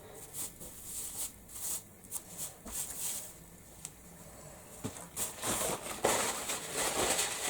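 Light clicks and taps of small objects being handled and set down on a craft table, giving way about five seconds in to denser rustling and scraping.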